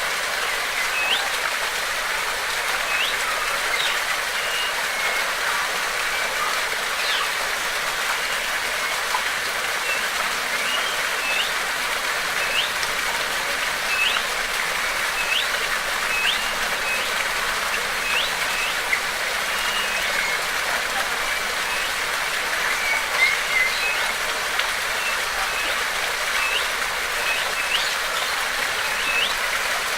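Steady rush of flowing water, with a bird repeating a short, rising whistled note about once a second over it.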